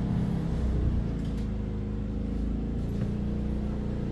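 Pulsar PGD40ISCO 4000-watt inverter generator engine running under the load of a microwave and air conditioner, its pitch shifting as the inverter adjusts engine speed, with the microwave's hum beneath it.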